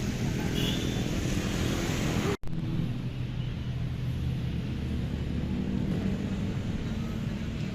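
Motor vehicle engines running in street traffic, a steady low drone. The sound cuts out for an instant about two and a half seconds in.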